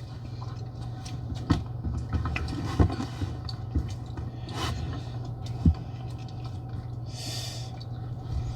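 Seafood-boil eating and food handling close to the microphone: scattered clicks, taps and scrapes, with a short rustle about seven seconds in. A steady low hum runs underneath.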